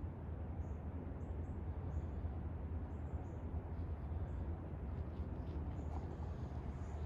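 Small songbirds chirping: brief high chirps, about ten, scattered irregularly, over a steady low rumble.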